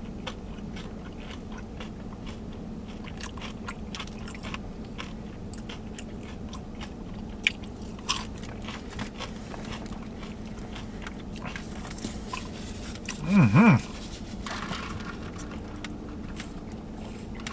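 Close-up chewing and crunching of battered fried catfish, with many small irregular crunches over a steady low hum. About thirteen seconds in, a person's voice gives a short, loud, wavering hum.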